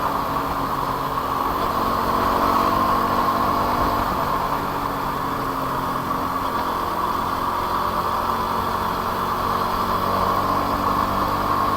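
Motorcycle engine running at a steady speed under a constant hiss of road and wind noise.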